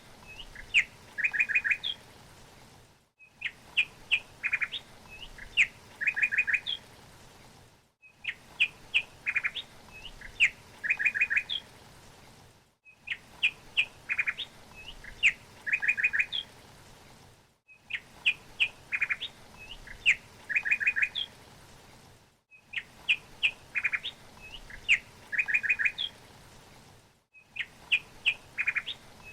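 A songbird singing the same phrase over and over: a few sharp chirps, then a quick run of about four trilled notes. It is repeated identically about every five seconds, with a brief dropout between repeats, the mark of a short recording looped.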